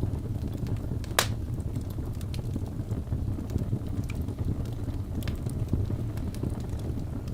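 Birch logs burning in a fireplace: a steady low rumble of flame with scattered sharp crackles, and one loud pop about a second in.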